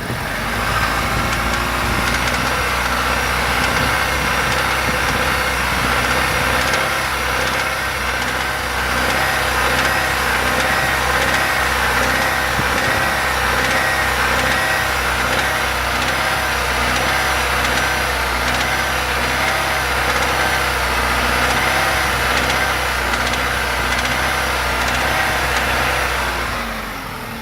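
Vehicle engine idling steadily with a knock in it, the knock the owner has recorded the engine to show.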